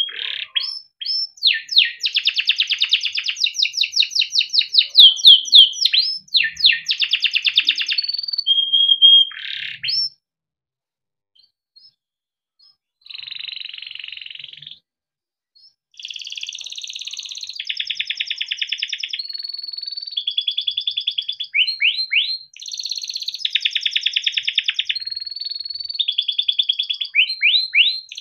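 Domestic canary singing a long, varied song of rapid trills and rolls, quick rising sweeps and held whistled notes. About ten seconds in, it falls silent for about three seconds, gives one short buzzy phrase, pauses again, then sings on without a break.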